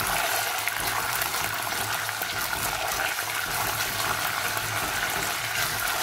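Ginger and garlic paste sizzling steadily in hot oil, stirred with a silicone spatula.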